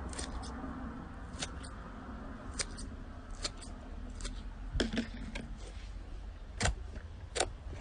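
Slime being squeezed and handled, giving irregular sharp clicks and pops over a low steady hum.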